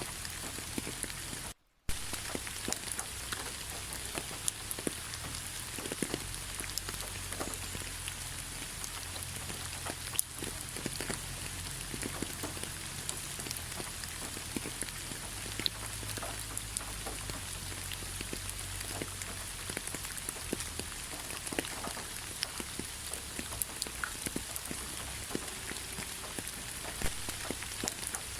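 Steady rain falling, with many separate drops ticking sharply through the patter. The sound cuts out completely for a moment about one and a half seconds in, then resumes.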